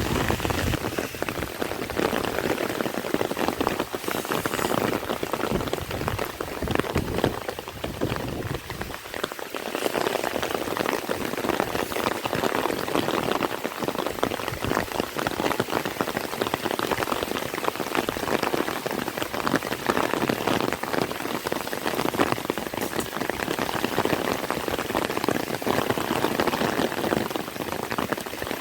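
Heavy rain falling: a dense, steady hiss of countless drops striking a surface.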